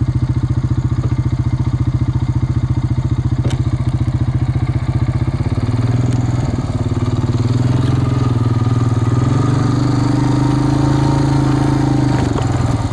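An engine running with a fast, even chugging pulse. About halfway through it smooths into a steadier, higher-running tone, then drops back to the chugging pulse near the end.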